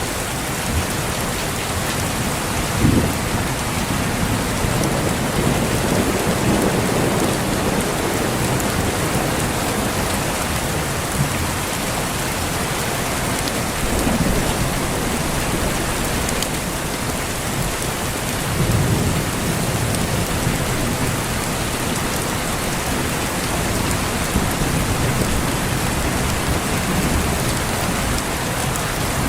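Steady heavy rain with low rumbles of thunder rolling in several times; the sharpest comes about three seconds in and another swells up around nineteen seconds.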